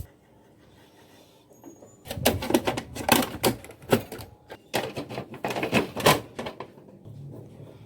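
Rapid, irregular mechanical clicking and clattering that starts about two seconds in and dies away after about six seconds.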